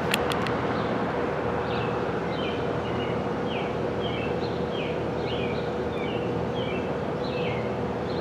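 Steady machinery noise with a constant hum, a couple of sharp clicks right at the start, and a bird chirping in quick short notes over it.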